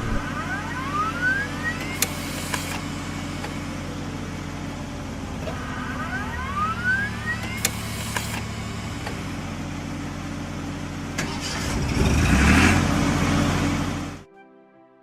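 Cartoon truck engine sound effect running steadily, with a rising whine twice. It grows louder near the end, then cuts off suddenly shortly before the end.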